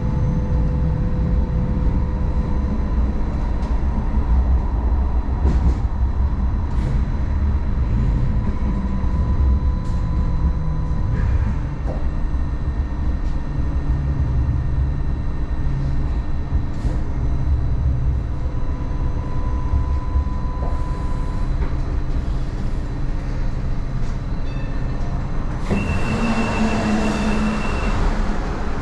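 Hong Kong Light Rail Phase I two-car train running on its rails: a steady low rumble with a thin, steady whine that fades out about two-thirds of the way through. Near the end comes a brief hiss with a high tone.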